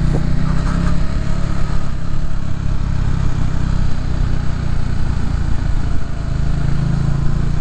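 Motorcycle engine running steadily at low speed while riding through town.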